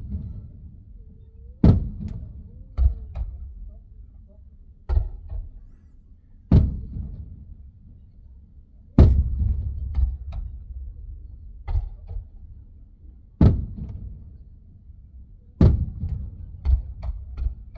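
Fireworks shells bursting, heard from inside a car: a string of sharp bangs about every one to two and a half seconds, each trailing off in a low rumble, with a few smaller cracks between them.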